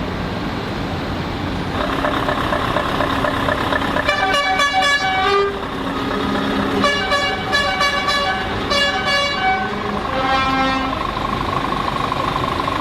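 Truck air horns sounding in several long blasts, with more than one horn pitch overlapping, over the running engines of arriving trucks. The first horn comes in about two seconds in.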